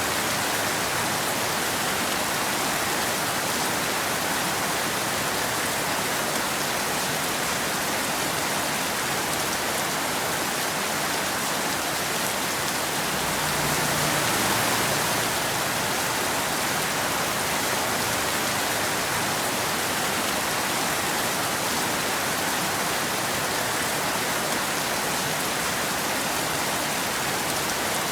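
Steady rain falling as an even hiss, swelling slightly about halfway through.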